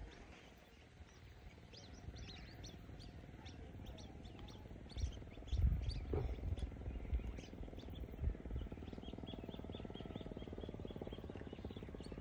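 Birds calling in many short, high chirps, turning into a quick even run of chirps in the last few seconds. A few low thumps of wind or handling on the microphone about five to six seconds in.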